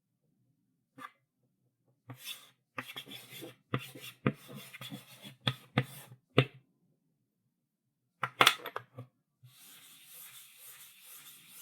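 Chalk writing on a blackboard: bursts of scratchy strokes, each started by a sharp tap of the chalk on the board, the loudest a little past the middle. Near the end a steady, fainter rasping hiss sets in.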